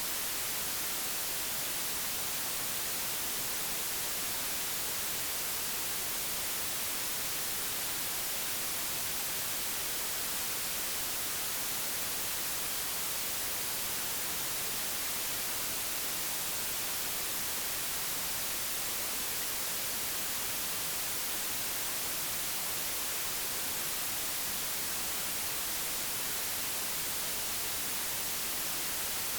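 Digitally generated white noise: a steady, even hiss with no changes, its energy strongest in the high frequencies.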